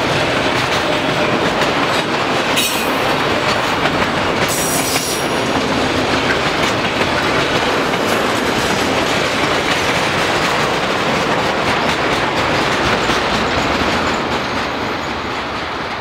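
Empty autorack freight cars rolling past on steel wheels: a steady rumble and clatter of wheels on the rails, with two brief high wheel squeals on the curve a few seconds in. The noise fades as the last car goes by near the end.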